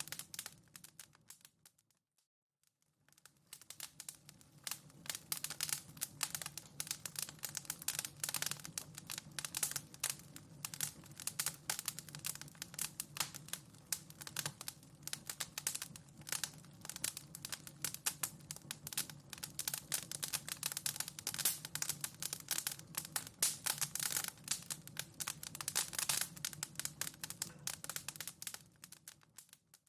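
Wood fire in a fireplace crackling, with dense irregular pops and snaps over a low steady rumble. The crackling fades almost to nothing for about a second near the start, then builds back, and fades out again at the very end.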